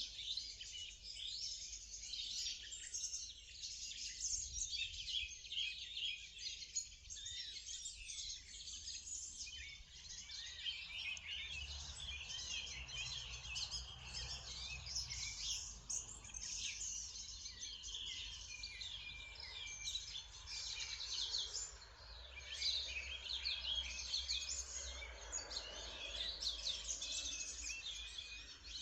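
Many songbirds singing and chirping at once in a dense morning chorus of overlapping trills and tweets.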